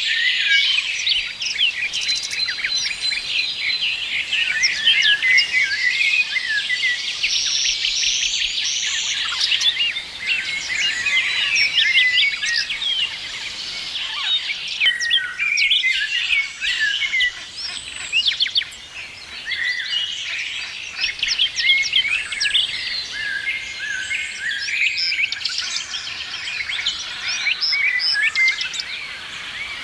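A chorus of many birds chirping and singing together, dense and continuous, with short high calls and trills overlapping throughout.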